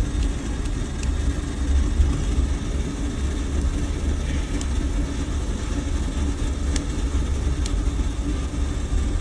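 Truck engine idling steadily with a low rumble, with a few faint clicks.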